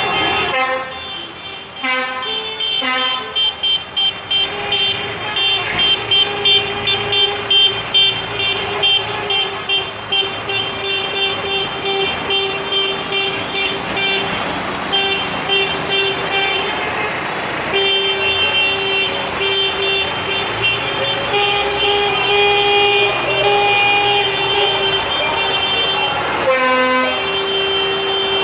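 Tractor horns tooting in quick repeated blasts, then longer held blasts, over running engines.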